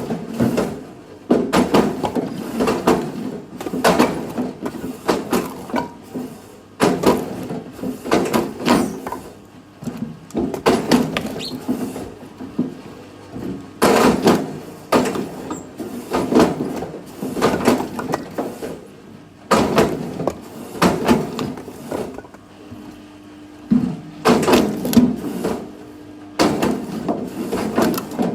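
Firewood being worked by hand with an axe: sharp wooden knocks and clattering of split pieces, coming in irregular clusters every few seconds.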